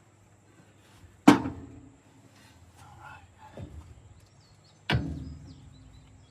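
Two heavy metal clanks about three and a half seconds apart, each ringing briefly as it dies away, with lighter knocks and scraping between them, from metal parts and tools being handled on the dozer's exhaust.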